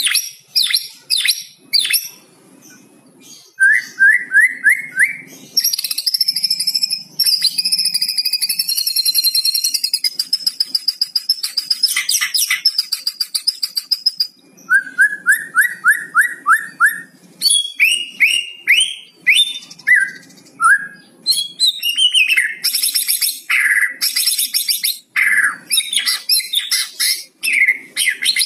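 White-rumped shama singing a fast, varied song: quick runs of rising notes, a long high whistle, and dense crackling rattles (the 'kretekan' call).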